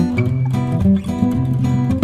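Background music with a plucked acoustic guitar playing a quick run of notes.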